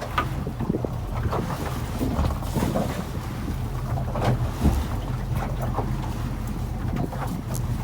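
Small fishing boat's engine running steadily, with irregular knocks and clatter while lobster pots are being shot away.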